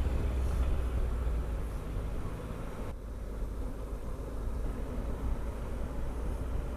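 Triumph Tiger 1200's three-cylinder engine running steadily under way, with a low drone and a rush of wind and road noise. It eases slightly about three seconds in.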